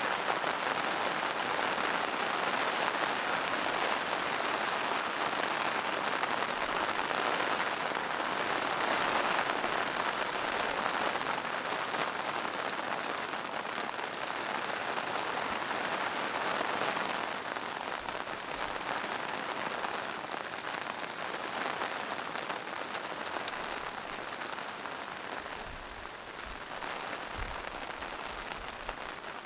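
Steady forest rain: an even hiss of rainfall with many small drop patters, growing a little softer in the second half.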